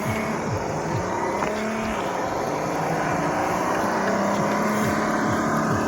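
Radio-controlled truck running downhill, its electric motor and gears whining with the pitch repeatedly shifting as the throttle changes.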